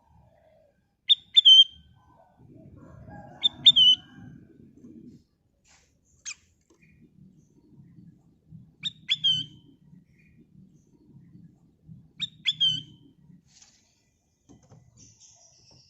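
Kutilang emas bulbul calling: short, sharp two-note calls repeated five times, about every three seconds, over a faint low rumble.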